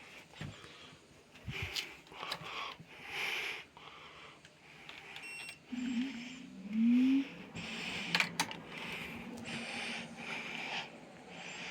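Zanussi air conditioner beeping once, then its motor starting with a low hum that rises in pitch and settles into a steady tone. Intermittent hissy rustles and a few clicks come and go throughout.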